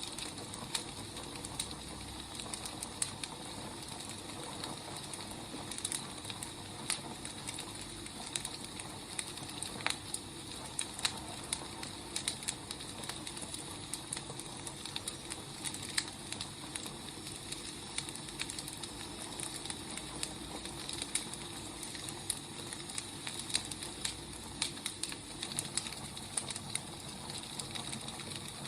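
Burning firewood crackling: a steady hiss with frequent irregular pops and snaps.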